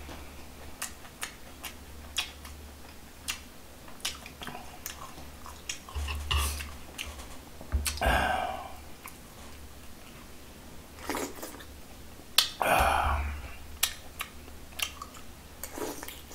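Close-up sounds of a man chewing and lip-smacking as he eats, with short wet mouth clicks every second or so. Two longer, louder noisy sounds come about eight and twelve and a half seconds in. A steady low hum runs underneath.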